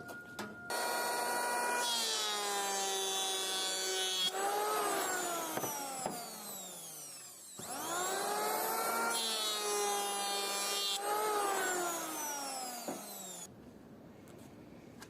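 Electric power tool working wood in two runs. Its motor whine falls and rises in pitch during each run, and the second run starts about halfway through.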